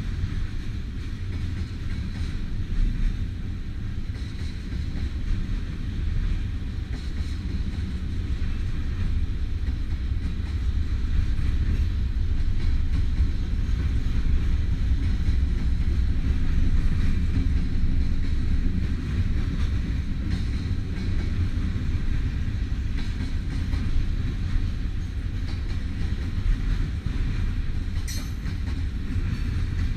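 Freight train cars rolling past with a steady low rumble of steel wheels on the rails.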